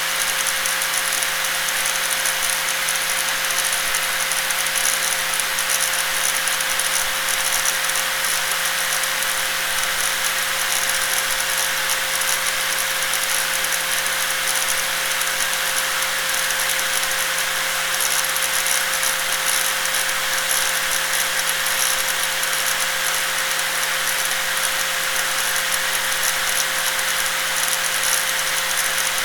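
Electric angle grinder running steadily: a constant motor whine over a dense, even hiss, with no change in speed or load.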